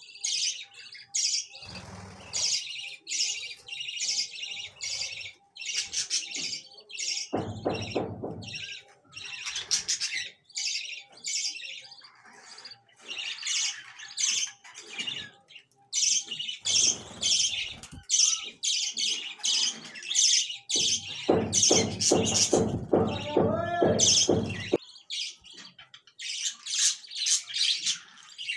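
Small birds chirping rapidly and almost without pause, in quick runs of short high chirps. Twice, a longer, lower-pitched call stands out over the chirping, the second one lasting several seconds.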